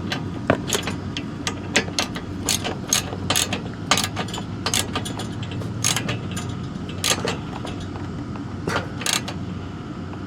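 Hand ratchet wrench clicking in short, irregular strokes while tightening bolts, over a steady low hum.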